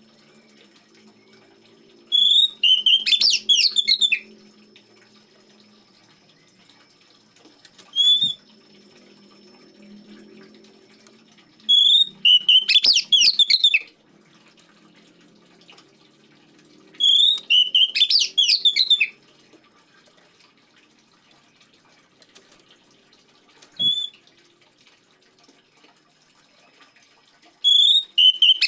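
Oriental magpie-robin singing in short phrases of clear whistled notes, each about two seconds long and repeated every few seconds, with a brief single call near the end. Faint trickling water runs underneath.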